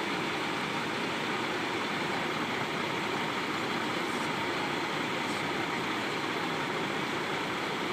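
Steady drone of idling diesel truck engines, even and unbroken.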